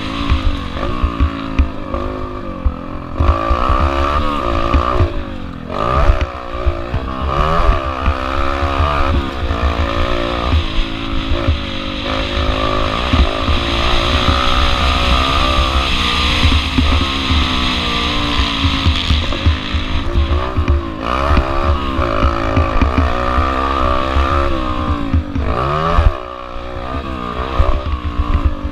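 Pit bike engine revving hard and easing off again and again, its pitch climbing and dropping through the race, with short dips in level where the throttle is rolled off about 3, 5.5, 20.5 and 26 seconds in.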